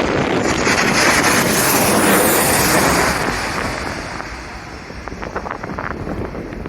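Jet airliner passing low overhead on landing approach. Its loud engine rush swells and then fades away about three to four seconds in, while strong wind buffets the microphone.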